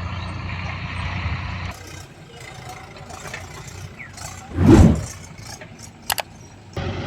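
Heavy diesel machinery running steadily, then cutting off abruptly to a quieter background. About two-thirds of the way through comes one loud, brief rushing burst, then two sharp clicks, before the engine sound cuts back in near the end.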